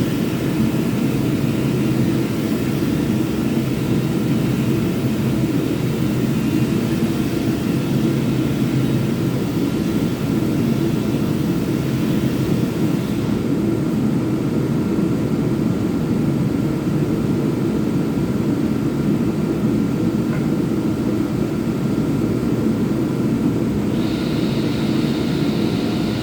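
Power sander running steadily: a continuous low motor drone with a sanding hiss. The hiss thins out about halfway through and returns near the end.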